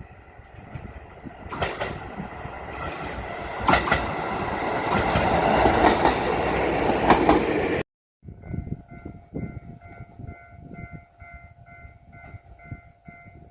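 JR Hokkaido H100 diesel-electric railcar pulling into the station, its running noise growing louder with clicks from the wheels over rail joints. About eight seconds in the sound cuts off abruptly and gives way to a repeating electronic two-tone beeping, about two a second, over a steady hum.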